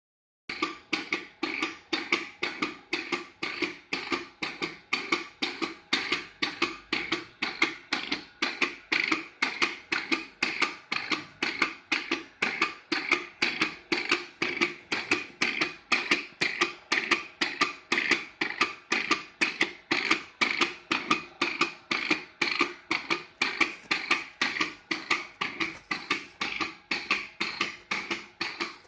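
Repaired electromagnetic clutch and brake clacking on a test bench as an electronic controller cycles them on and off: a steady, rapid series of sharp metallic clicks, each with a short ring.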